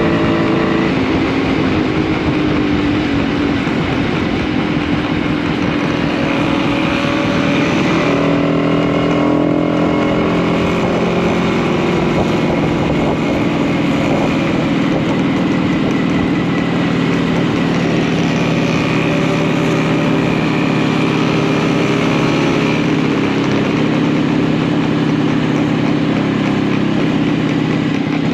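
Post-war two-stroke motorcycle engine running under way, steady, with the revs changing about eight to ten seconds in.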